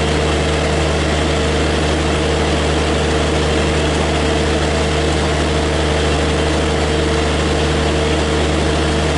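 A standing express train humming steadily at the platform: a deep, even drone with a steady mid-pitched tone on top, unchanging throughout.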